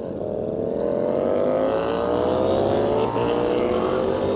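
A 2021 KTM Duke 890R's parallel-twin engine under way through a catless Austin Racing GP1R exhaust, pulling steadily with its pitch climbing slowly. The pitch briefly dips about three seconds in, then keeps rising.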